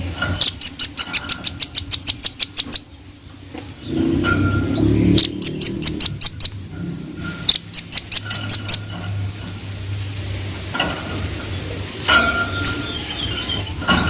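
Velvet-fronted nuthatch (red-billed rambatan) calling in rapid runs of sharp, high piping notes, about seven a second, in three bursts. The first burst is the longest. There is a steady low hum and hiss behind.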